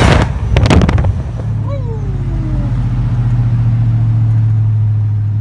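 Supercharged V8 of a 1999 Ford Lightning coming off a rev: a few sharp cracks in the first second, then a whine that falls in pitch as the revs drop, settling into a steady idle.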